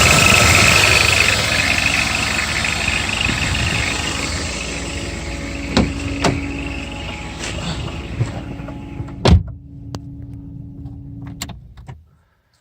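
BMW M50 straight-six engine running with a steady high chirping squeal, the 'cricket' noise of the drive-belt tensioner, which the owner traces to a faulty tensioner mechanism rather than the idler pulleys. The sound fades away gradually, with several sharp clicks and knocks in its second half.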